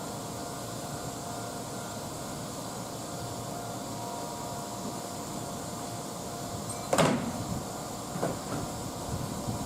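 Steady background hum, then about seven seconds in a Kintetsu limited express train passing through the station without stopping arrives with a sudden loud rush and clatter of wheels on rail joints, which goes on as it passes.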